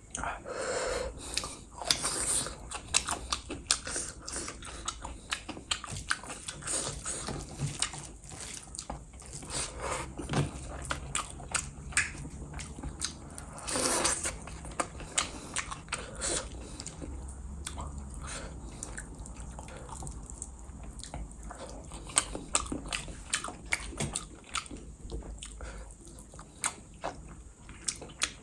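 Close-miked mouth sounds of eating rice, fish curry and fresh coriander by hand: wet chewing with many quick smacks and clicks.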